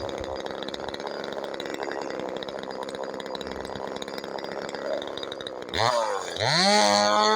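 DDE CS 250 two-stroke chainsaw idling steadily, then revved hard near the end: the pitch climbs, dips once and climbs again to hold at high revs.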